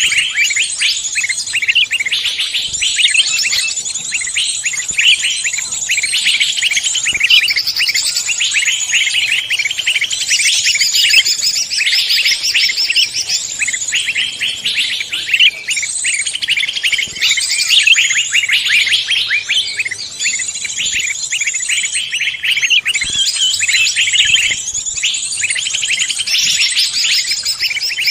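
Songbird song: a dense, continuous stream of rapid, high chirps and trills, used as a lure call to draw other songbirds.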